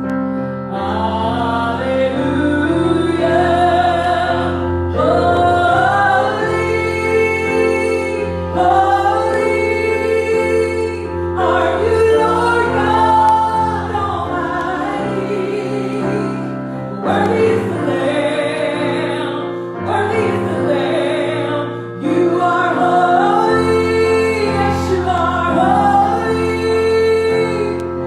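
Worship music: singers, with a female voice prominent, singing a gospel-style hymn in phrases of a few seconds over steady instrumental accompaniment.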